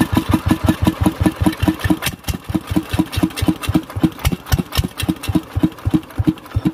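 Kirloskar single-cylinder diesel engine running at idle, a steady train of firing beats about five to six a second that slow slightly near the end.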